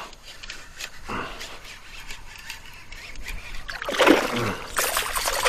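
Water splashing beside a kayak, getting louder and sharper about five seconds in, as a hooked speckled trout is brought to the boat. A short vocal exclamation is heard just before the splashing picks up.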